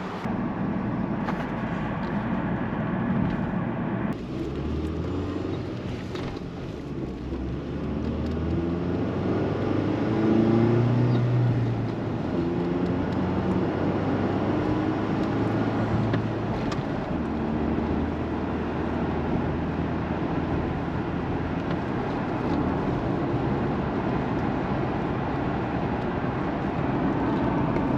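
A vehicle engine running while driving, its pitch rising and stepping up as it accelerates, loudest about ten seconds in.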